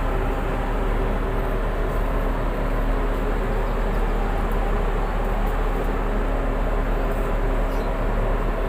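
Tugboat diesel engines running at a steady speed: a constant loud drone with a few held tones over a deep rumble.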